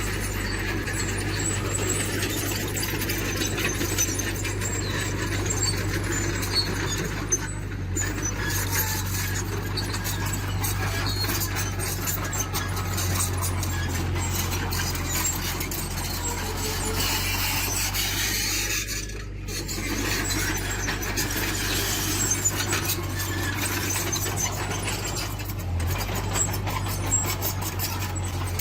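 Diesel engine of a tracked earthmoving machine running steadily under a high squeal and a constant scatter of small metallic clanks and ticks, typical of steel crawler tracks and undercarriage working.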